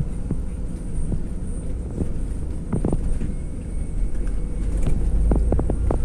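Steady low rumble of a vehicle in motion, with scattered short knocks and clicks over it.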